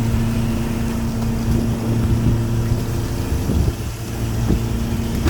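Small fishing boat's engine running steadily with an even hum while an octopus-pot line is hauled, with a few irregular knocks over it.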